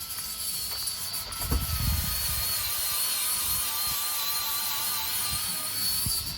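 Power tool cutting a part down to size: it runs steadily with a slightly wavering whine for about six seconds, then stops near the end.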